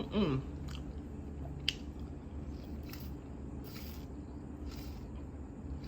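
Quiet chewing and wet mouth smacking while eating, with a few small sharp clicks, over a steady low hum.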